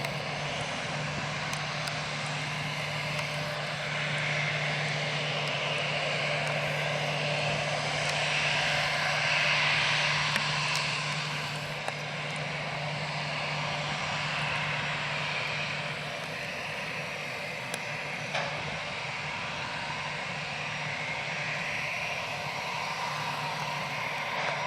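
Airbus A320-214's two CFM56 turbofan engines running, a steady jet roar with a low steady tone beneath it. It swells from about four seconds in and eases off again around twelve seconds in.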